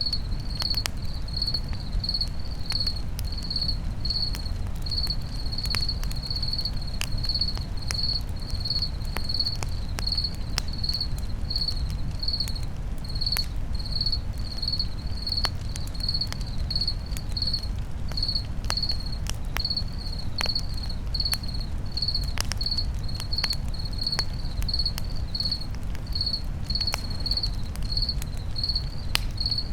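A cricket chirping steadily, close to twice a second, over a crackling campfire with scattered sharp pops and a steady low rumble.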